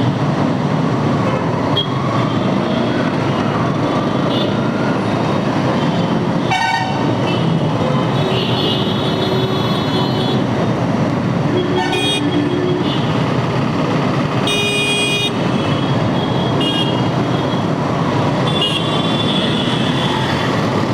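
Steady road and wind noise of a motorcycle ride in dense city traffic, with vehicle horns honking several times: short toots about a third of the way in and near the middle, and longer blasts in between and towards the end.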